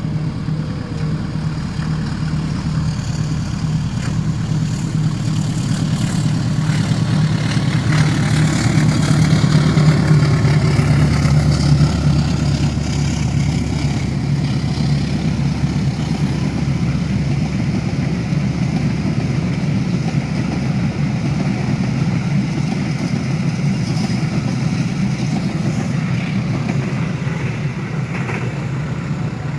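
Diesel locomotive of the Taksaka passenger train running past, its steady engine hum loudest about ten seconds in. Then the continuous rumble of the carriages rolling by.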